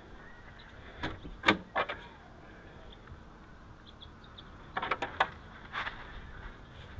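A few sharp clicks and knocks: three in the second second, then a quick cluster of four or five about five seconds in and one more soon after.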